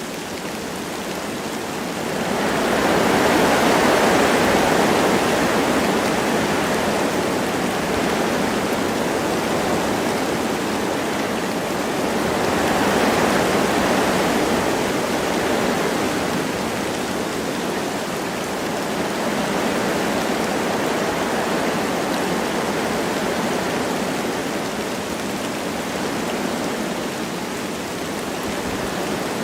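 Wind blowing through forest trees with light rain falling: a steady rushing that swells in two gusts, about two seconds in and again about thirteen seconds in.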